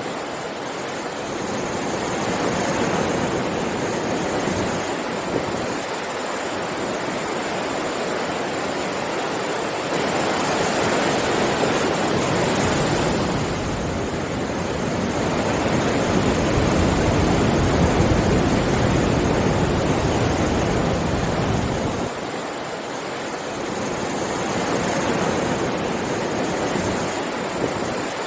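Ocean waves breaking on a beach: a continuous rush of surf that swells and eases slowly, building to its loudest through the middle and falling back about two-thirds of the way in.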